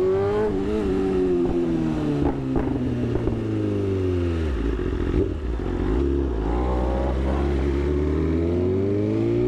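Sportbike engine under way: the revs climb briefly, wind down slowly for about four seconds, hold low, then climb again toward the end. A couple of light knocks about two and a half seconds in.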